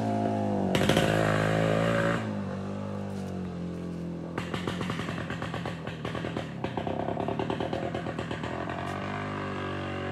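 Voskhod 3M's 175cc two-stroke single-cylinder engine running with its muffler inserts removed, a very loud open exhaust. The revs are held for about two seconds, then drop, and at low revs the exhaust fires in uneven, crackling pops.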